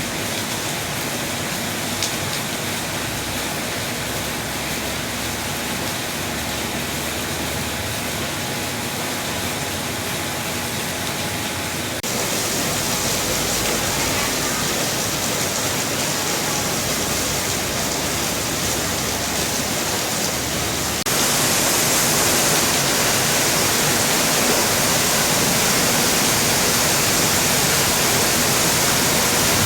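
Heavy rain falling, a steady dense hiss that grows louder in two sudden steps, about a third and about two-thirds of the way through.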